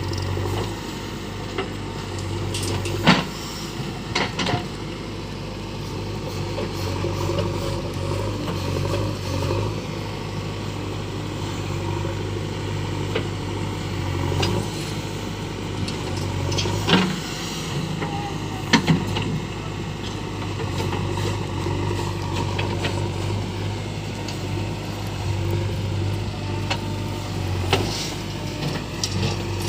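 Heavy diesel engine of construction machinery running steadily at a constant speed. It is broken by a few sharp knocks or clanks: two close together a few seconds in, and two more a little past the middle.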